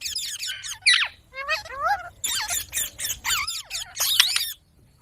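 A parrot chattering in a rapid run of squeaky, sliding calls that swoop up and down in pitch, breaking off shortly before the end.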